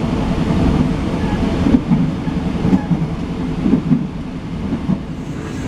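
Locomotive-hauled passenger train running along the track with a steady low rumble, its wheels clacking over the rail joints about once a second.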